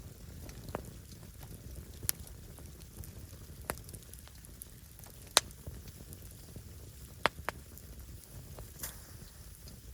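Firewood burning with a steady low rumble and about seven sharp crackling pops, the loudest about halfway through.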